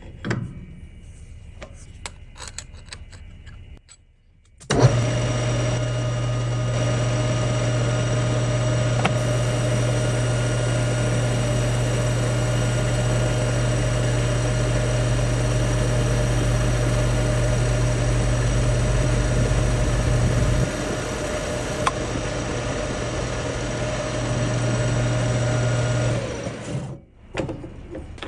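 A shop machine tool's electric motor and drive running steadily. It starts abruptly about five seconds in, its deepest rumble drops away about two-thirds through, and it runs down near the end. Before it starts there are light knocks and clicks of handling.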